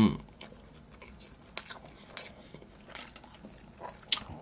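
Close-miked eating sounds: chewing with scattered short smacks and small clicks. A brief low thump comes right at the start.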